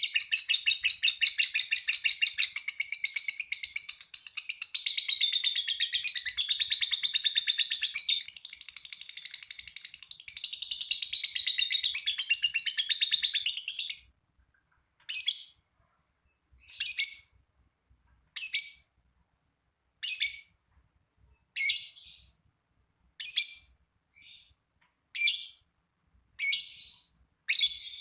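Lovebird singing a long, rapid, unbroken chattering trill (the 'ngekek'), which stops abruptly about halfway through. It then gives short separate chirps about every second and a half.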